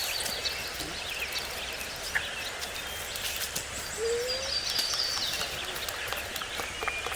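Wild birds calling: scattered high chirps and trills, with one short, lower call rising in pitch about four seconds in, over a steady outdoor hiss.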